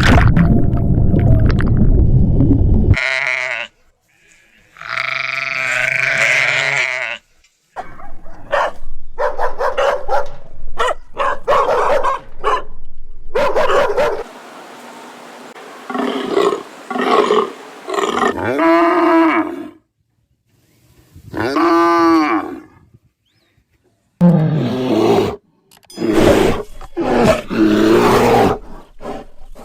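A run of different animal calls, one short clip after another, with brief silent gaps between them; some are pitched calls that rise and fall.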